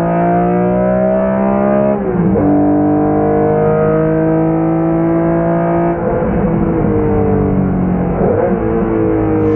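BMW M1 race car's inline-six engine under hard acceleration, heard from inside the car. The engine note climbs, drops sharply at an upshift about two seconds in, then climbs again. It eases off about six seconds in, with another quick change in pitch near the end.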